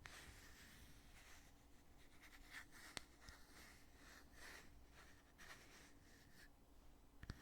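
Heavy lid of a cosmetic foundation container being opened and closed, faint rubbing and scraping with sharp clicks near the start, about three seconds in, and near the end.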